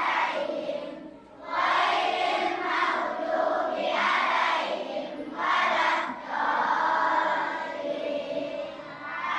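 A large group of children chanting in unison, in phrases of a second or two with short breaks between them.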